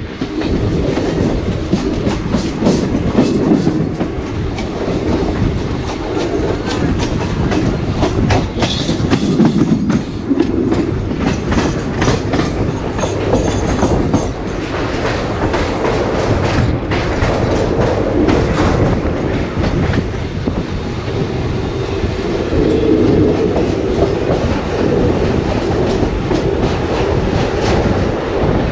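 Indian Railways passenger coach running along the track, its wheels clattering over rail joints in irregular clicks, heard from the coach window. In the second half the train is crossing steel girder bridges.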